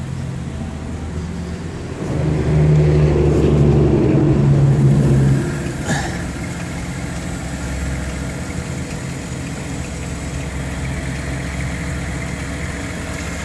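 2011 BMW X3's inline-six engine idling steadily. It is louder for about three seconds from about two seconds in, then settles back, with a single sharp click about six seconds in.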